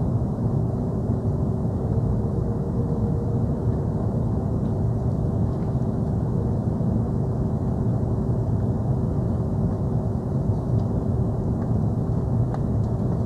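Steady cabin noise of an Airbus A330-300 airliner: an even low rumble from its engines and airflow, with a faint steady hum above it.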